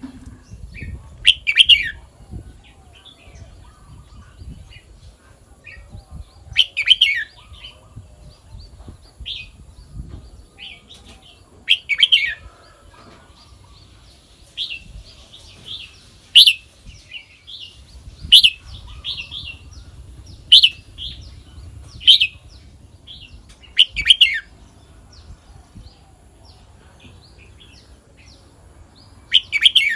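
Red-whiskered bulbul singing: short, loud chirping song phrases every two to five seconds, with softer chirps in between.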